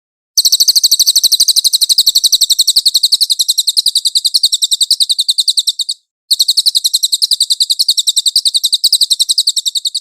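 A cililin songbird singing a rapid, high-pitched trill of about a dozen even notes a second, in two long runs broken by a short pause about six seconds in.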